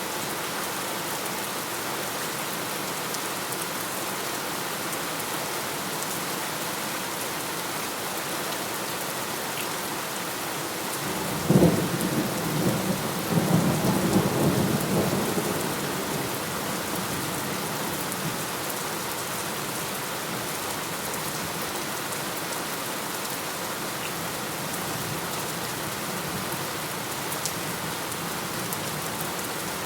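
Steady heavy rain falling, with a single thunderclap about a third of the way in: a sharp crack followed by a rolling rumble of a few seconds that dies back into the rain.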